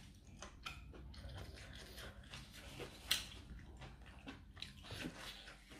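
Close-up eating sounds: a person chewing and crunching a spicy cucumber salad with octopus, in a run of small wet clicks and crackles. A single sharp click about three seconds in is the loudest.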